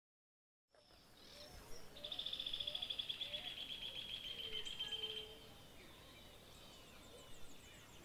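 Birds calling: a fast, high trill lasting about three seconds and dropping slightly in pitch, over softer, lower whistled calls, with faint high twittering near the end. The sound fades in about a second in.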